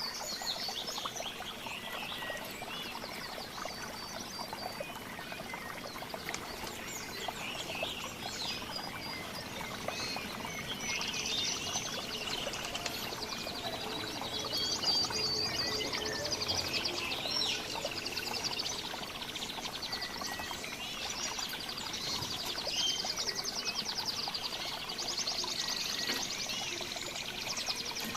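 Several songbirds singing and calling together: overlapping high chirps and fast rattling trills, thicker in a few stretches, over a steady noisy background.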